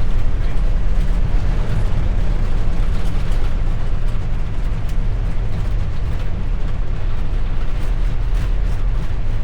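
Loud, steady rumble of an Airbus A320 rolling out on the runway just after touchdown, heard inside the cockpit: engine noise and the wheels running on the runway.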